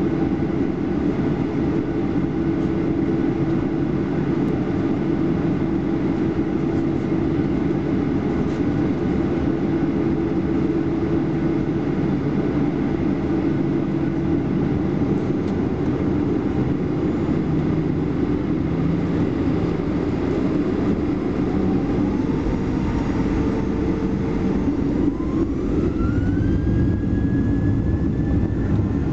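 Cabin noise of a Boeing 737-800's CFM56 jet engines: a steady low rumble, then from about twenty seconds in a whine that rises in two steps and levels off near the end as the engines spool up.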